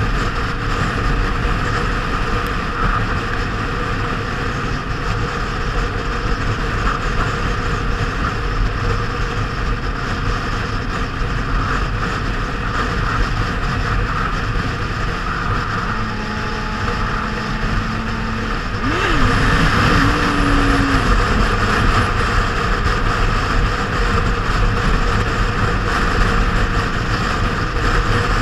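Kawasaki Z750R motorcycle's inline-four engine running at cruising speed under steady wind rush. About two-thirds of the way through, the engine and wind grow louder as the bike speeds up.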